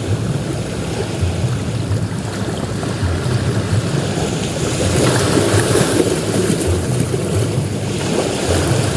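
Ocean waves breaking and washing up on a beach, a continuous surf rush that swells louder about halfway through, with some wind on the microphone.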